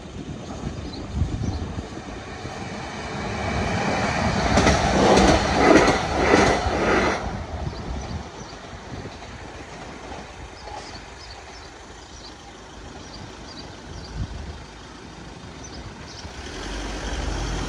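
A train passing on the line: its rumble and the clatter of wheels build from about three seconds in, are loudest around five to six seconds, and cut off abruptly near seven seconds. After that there is a quieter background of road vehicles, with a truck engine's low rumble rising near the end.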